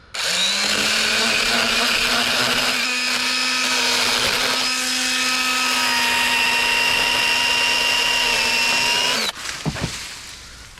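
Echo battery-electric pruning saw with a 6-inch bar cutting through a large tree limb. Its motor whine rises briefly as it spins up, then holds a steady pitch under the chain's cutting noise for about nine seconds before cutting off suddenly.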